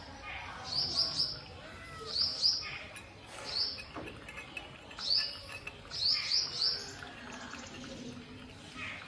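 A small bird chirping: short, high notes in quick runs of two to four, repeated every second or so, with the last run near the middle.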